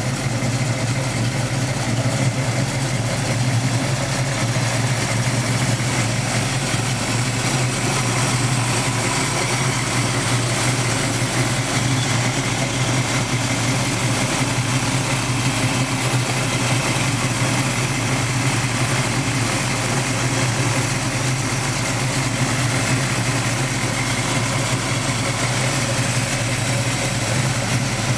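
1973 Plymouth Barracuda's engine idling steadily, with no revving.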